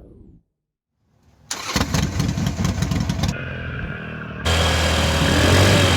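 Motorcycle engine starting about a second and a half in, catching and running unevenly before settling. About four and a half seconds in it gives way abruptly to a louder, steady engine hum with a broad hiss.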